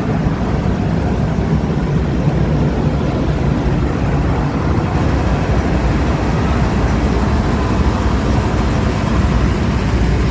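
Diesel railcar standing at the platform with its engines running: a steady low rumble.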